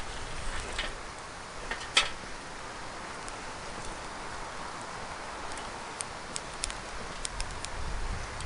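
Wood fire crackling in a homemade folding stainless fire pit: a steady hiss with scattered sharp pops, one louder crack about two seconds in and a run of pops near the end.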